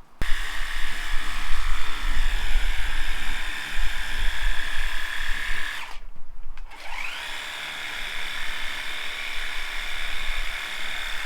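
A small handheld electric motor tool running with a steady high whine. It stops about six seconds in, then spins back up, rising in pitch, and runs on.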